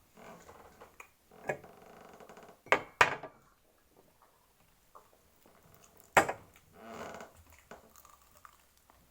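Table sounds during a meal: sharp clicks and knocks of a plate and cutlery being handled, loudest about three seconds and six seconds in, with quieter handling noise in between.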